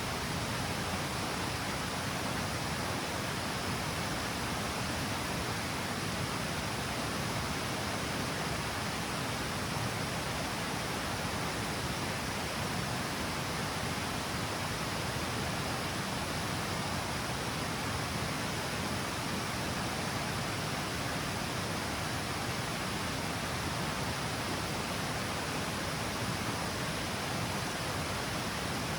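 Water cascading steadily over the stepped falls of a river, a constant even rush with no let-up.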